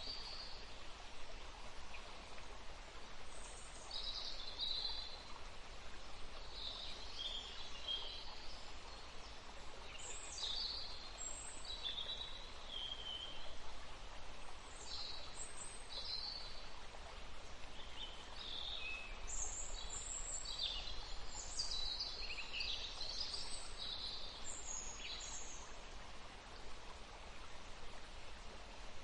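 Several songbirds chirping and singing in overlapping short, high-pitched phrases over a steady background hiss.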